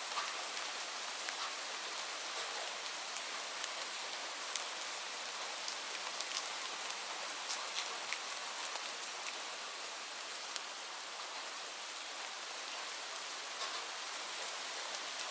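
Steady rain falling on leaves: an even hiss with many separate drop patters and ticks scattered through it.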